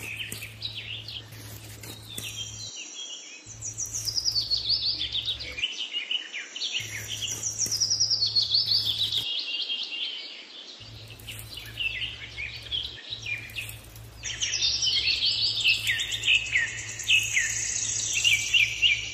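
Songbirds chirping and singing in quick runs of high notes that sweep downward in pitch, thinning out in the middle and picking up again near the end. A faint low hum runs beneath and cuts out a few times.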